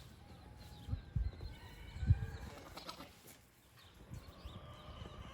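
Quiet goat-pen ambience: a few soft low thumps about one and two seconds in, with faint, thin high-pitched calls like distant birds.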